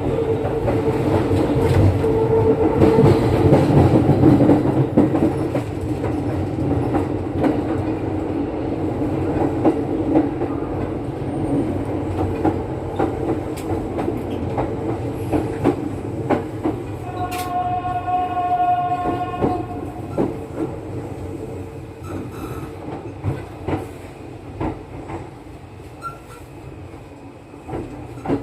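Running sound inside a Kintetsu 9020-series electric train car: a steady rumble with a faint steady whine that gradually gets quieter as the train slows, with scattered clicks of wheels over rail joints later on. About halfway through, a steady horn-like tone sounds for about two and a half seconds.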